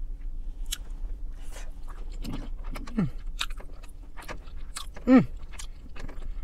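A person chewing a mouthful of chicken Alfredo pasta and shrimp, with repeated wet smacking and clicking mouth sounds. Two short hums fall in pitch, one about two and a half seconds in and a louder one about five seconds in.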